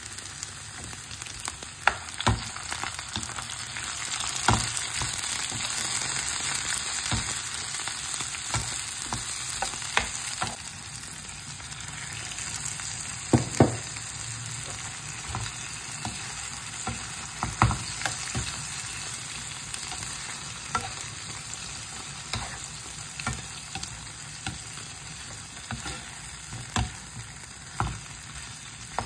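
Onions, tomato and meat sizzling in hot oil in a nonstick frying pan, a steady hiss throughout. Sharp knocks and scrapes of a spatula stirring against the pan come every few seconds, with a quick pair of loud knocks about halfway through.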